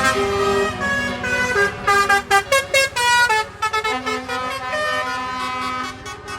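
Horns of several trucks sounding at once at different pitches, held blasts overlapping, with a quick run of short toots between about two and three and a half seconds in.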